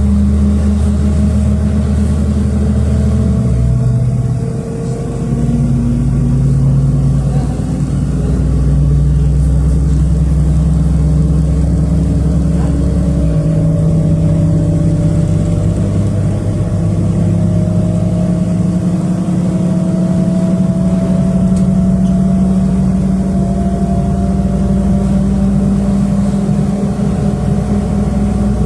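City bus engine and drivetrain running under way, heard from inside the bus. The low engine note changes abruptly twice, about 4 and 13 seconds in, while a higher whine rises slowly as the bus gathers speed.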